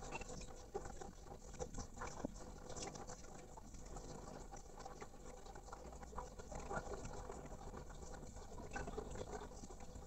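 Faint scratchy clicks and rustling from a caged male poksay mandarin, a laughingthrush, with no clear song.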